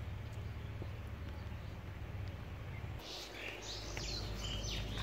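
Small birds chirping in quick, repeated short calls, starting about three seconds in. Before that there is only a low, steady rumble.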